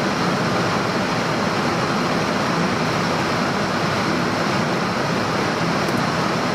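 Steady rushing noise of airflow and engines inside a Boeing 747 cockpit in cruise flight, with a faint low hum beneath.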